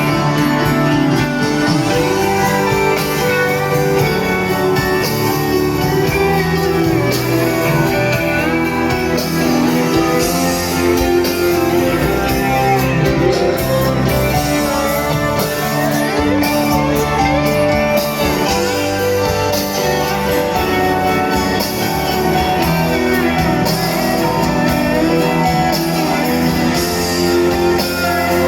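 Live rock band playing in an arena, with electric guitar carrying gliding, bending lines over the band. The music is loud and steady throughout.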